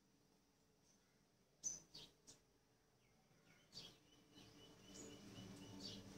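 Faint, short high bird chirps over near silence: three quick ones about two seconds in and one more near four seconds. A faint low hum comes up in the second half.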